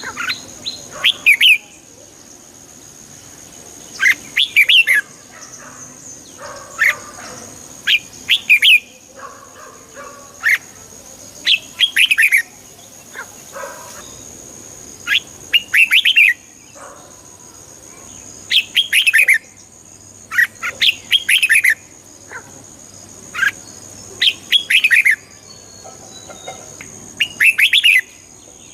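Red-whiskered bulbuls singing: short, bright phrases of quick notes, repeated every one to three seconds, with a steady high thin tone underneath.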